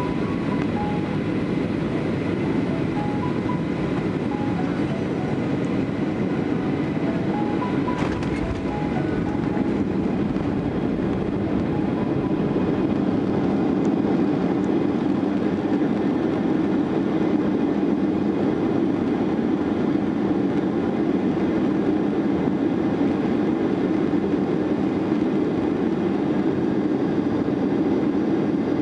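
Steady roar of an airliner's engines and airflow heard inside the passenger cabin, getting a little louder about halfway through, with a single sharp click early on.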